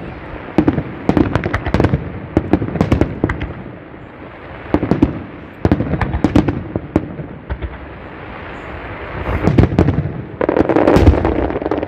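Large fireworks display: aerial shells bursting in rapid volleys of sharp bangs, thinning out briefly about four and eight seconds in, then building to a dense, loudest barrage near the end.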